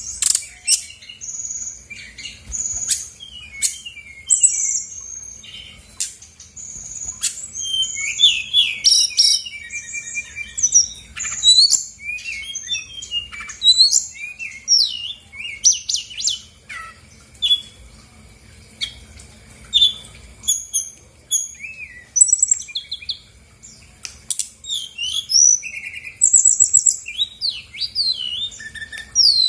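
Brown-chested jungle flycatcher singing a fast, varied string of short high chirps, slurred whistles and brief trills, phrase after phrase with short pauses: the bird is running through its full repertoire.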